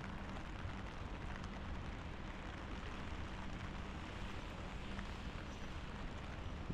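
Steady rain falling on a street: an even hiss with a dense patter of small drops.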